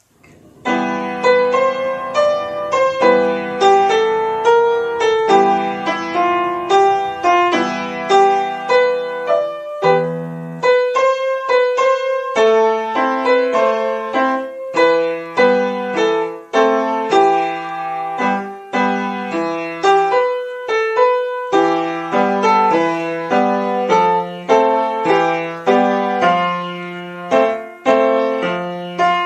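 Piano music: a steady run of struck notes with chords underneath, starting about half a second in.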